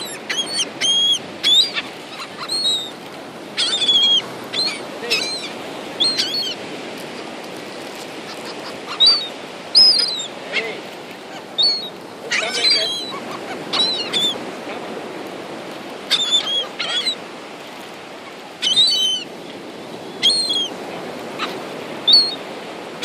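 A flock of gulls calling, many short cries one after another and sometimes overlapping, over a steady background hiss.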